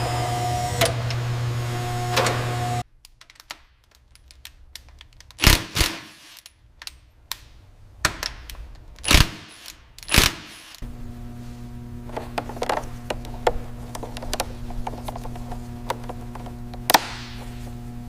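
A steady hum that cuts off about three seconds in, followed by a few loud, sharp mechanical knocks and clicks; the hum comes back with light ticking and one more click near the end.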